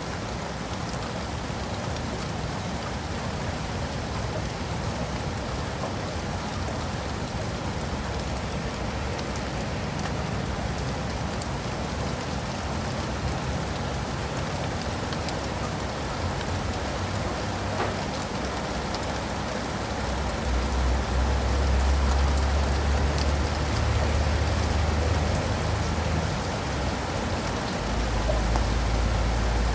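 Steady rain falling on leaves and pavement, an even hiss of drops. About two-thirds of the way through, a low rumble comes in underneath and grows stronger near the end.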